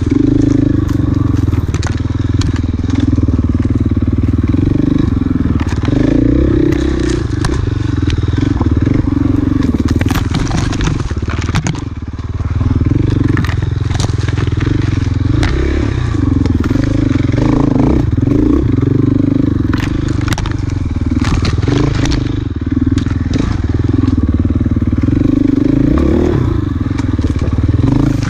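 Enduro dirt bike engine running hard on a trail, its pitch rising and falling with the throttle, with a brief let-off about twelve seconds in. Sharp knocks and clatter from the terrain come through over the engine.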